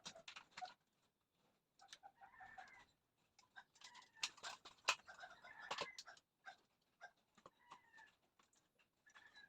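Faint bird calls, with scattered light clicks and taps.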